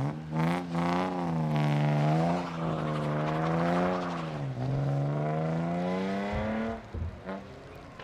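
A drift car's engine revving hard with its pitch swinging up and down as the throttle is worked through a slide, dipping briefly about four and a half seconds in, then dropping off about seven seconds in with a few short bangs.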